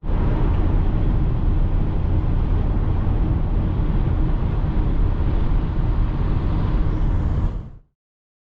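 Steady rumble of a moving vehicle, road and engine noise heavy in the low end, which cuts off abruptly near the end.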